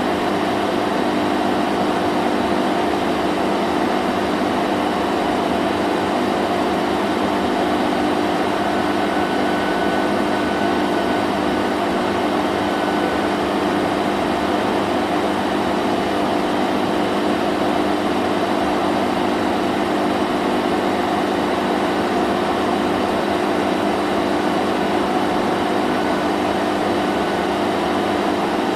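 Vacuum cleaner running steadily: an even motor hum under a rush of air, with no change in speed.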